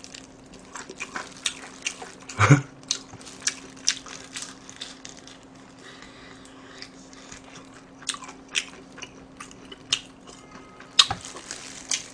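Close-miked crunching of crispy fried chicken being bitten and chewed: many crisp, irregular crackles, with a loud thump about two and a half seconds in and another sharp crunch near the end.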